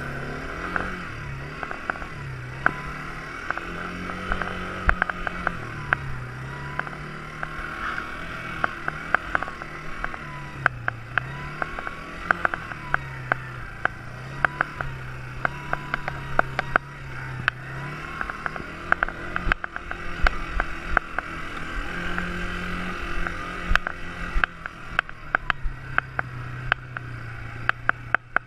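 Quad bike engine running, its pitch rising and falling every second or two as the throttle is opened and eased, with many sharp knocks and clicks throughout.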